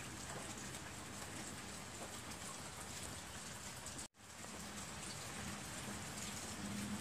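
Steady rain falling, heard as an even hiss, with a brief dropout about four seconds in.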